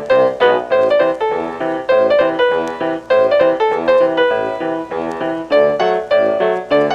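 Piano music playing a continuous, even run of notes, several each second, each note struck and then fading.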